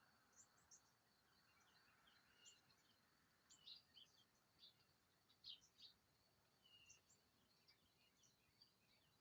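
Faint chorus of small birds: many short, high chirps and tweets scattered throughout, with a repeated brief falling note a couple of times. A faint steady high-pitched buzz runs underneath.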